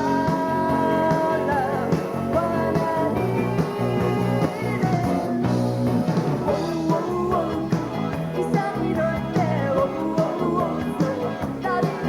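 Live pop band playing an upbeat rock-and-roll-style song with guitar, while a woman sings the lead vocal.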